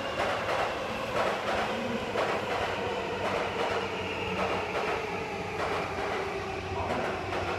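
An electric commuter train running through the station on the Seibu line: its wheels clatter over rail joints in regular close pairs, over a steady rumble and a high thin whine that slowly falls in pitch.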